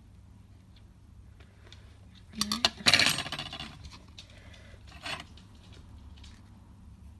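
Handling noise: a few sharp clicks and then a brief, loud clatter of small hard objects about two and a half to three and a half seconds in, followed by a single shorter knock about five seconds in.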